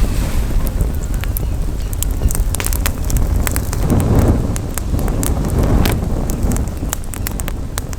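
Campfire crackling with frequent sharp pops and snaps, over a steady low rumble of wind on the microphone that swells twice.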